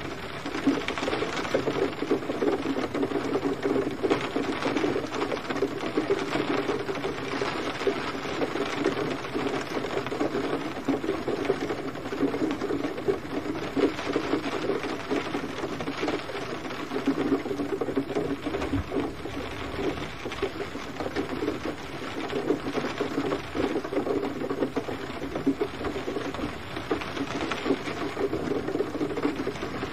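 Steady gentle rain: a dense, even patter of drops.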